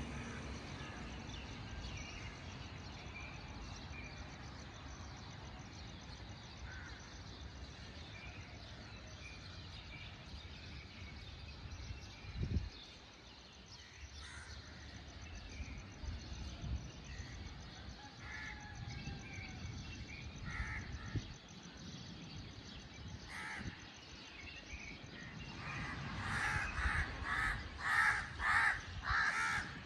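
Outdoor bird calls: a few scattered calls, then a quick run of about six harsh calls near the end, over a low steady background rumble. One dull thump midway.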